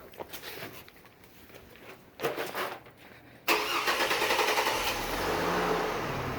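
A 2003 Chevy Trailblazer's engine being started just after a fuel filter change: a few faint clicks and a short noise about two seconds in, then the engine fires suddenly about three and a half seconds in and settles into a steady idle.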